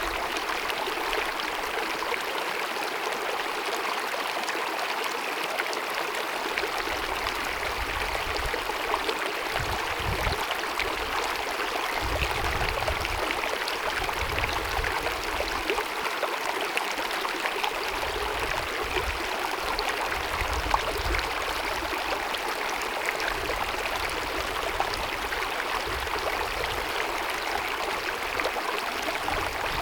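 Small mountain stream running over rocks, a steady babbling splash with quick little gurgles, and a soft low rumble that comes and goes.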